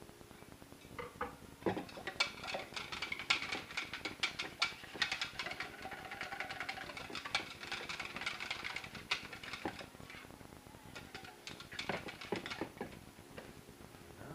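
Kitchen utensils and dishes clicking and clattering rapidly, in a long spell starting about two seconds in and a shorter one near the end.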